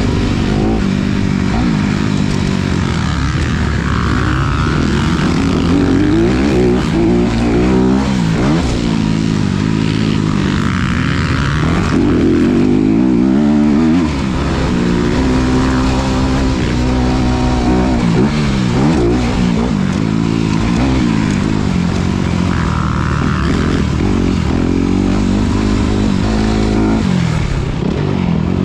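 Honda CRF250RX's 250 cc single-cylinder four-stroke engine on a motocross track, revving up and backing off over and over as the throttle is opened and shut, with a short lift-off about halfway through.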